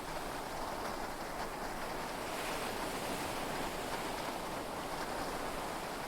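Steady wash of heavy rain and sea waves, heard from inside a yacht cabin, swelling slightly a couple of seconds in; no thunder.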